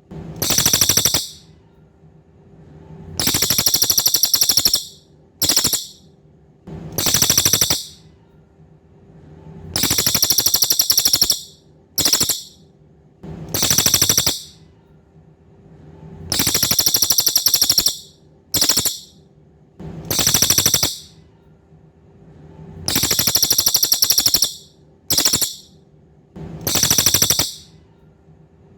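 Cililin bird calling: high, rapid, buzzy trills repeated every second or two, in a recurring run of a long trill, a short one and a medium one. A faint steady hum sits underneath.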